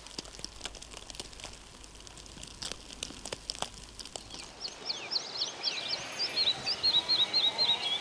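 Faint, irregular crackling clicks; then, about five seconds in, a bird starts chirping in a fast series of short, high notes that grow louder near the end.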